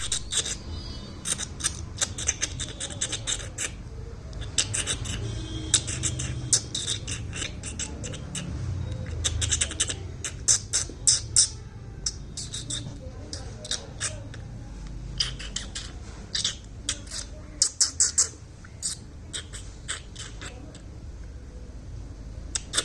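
Baby bird cheeping: short, high calls given in quick clusters, over a low background rumble.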